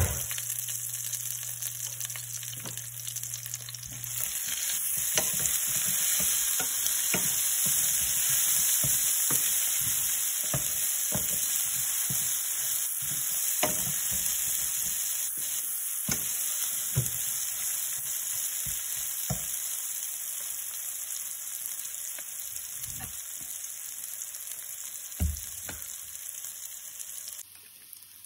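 Onions, tomatoes and whole spices sizzling in ghee in a stainless steel sauté pan, with a wooden spatula stirring and knocking against the pan in a string of short clicks. The sizzle drops off suddenly near the end.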